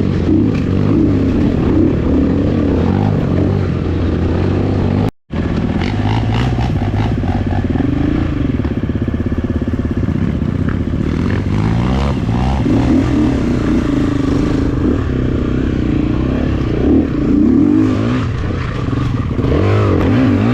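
Honda CRF250F dirt bike's single-cylinder four-stroke engine running and revving up and down while riding a trail, with some clattering. The sound cuts out for a moment about five seconds in.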